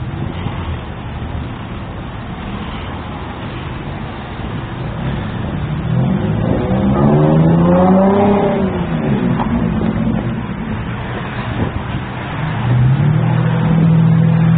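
Motor vehicle traffic over a steady low rumble: an engine note rises and then falls in pitch about halfway through, as a vehicle revs or passes, and another steady low engine note sets in near the end.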